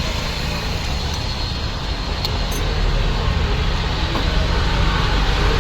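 A motor vehicle engine running steadily with a low rumble, growing slightly louder.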